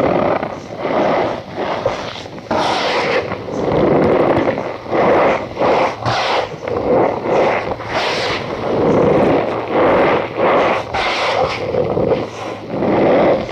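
Cornstarch powder being squeezed and pressed by hand, giving squeaky crunches in repeated surges about once a second.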